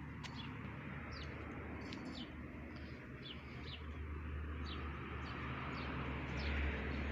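Small birds chirping: short, high, downward-sliding notes repeated every half second or so, over a steady low rumble that swells near the end.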